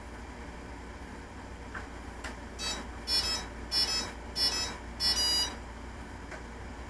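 A run of electronic beeps from a HobbyKing Nova quadcopter: five short bursts of pitched tones, about half a second apart, starting a little before the middle, over a steady hiss.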